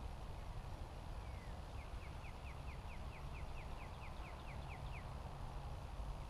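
A songbird singing a quick run of short, falling notes, about four a second for some three seconds, over steady low wind rumble on the microphone.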